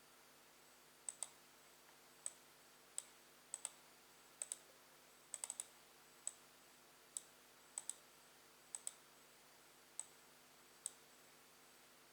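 Sharp clicks of a computer pointer button, some single and several in quick double-click pairs, at irregular intervals over a faint steady hum.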